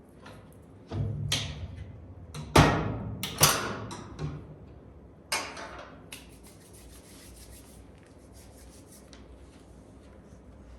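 Wood fire in a fireplace, with a handful of loud scraping knocks of wood in the first half, then faint, rapid crackling.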